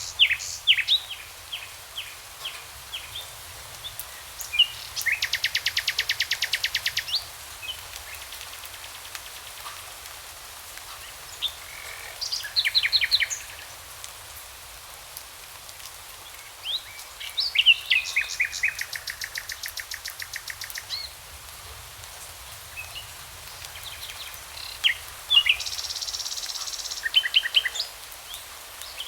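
Songbirds singing: short high chirps and several rapid trills lasting a couple of seconds each, over a steady background hiss.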